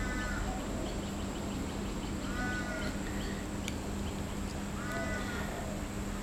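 A bird calling in the background: a short, harsh, crow-like call repeated about every two and a half seconds, over a steady low hum.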